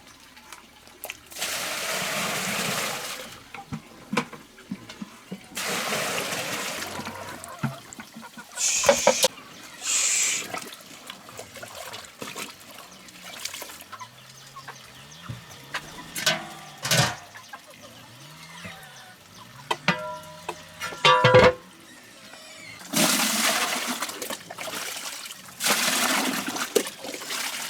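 Water pouring or splashing in repeated bursts of a second or two, with a few sharp clanks and some short pitched calls or squeaks between them.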